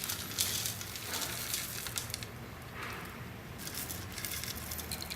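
Rolled oats and powder being tipped out of a robot vacuum's dust bin onto a weighing scale: faint, irregular rustling and pattering of dry flakes, with a soft click near the end.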